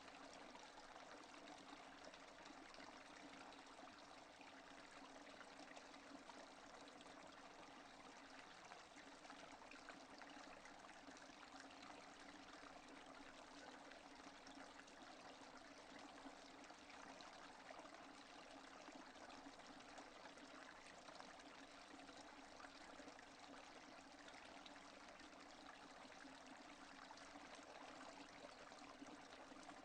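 Steady, faint rainfall with no thunder, an even patter of many small drops that does not change.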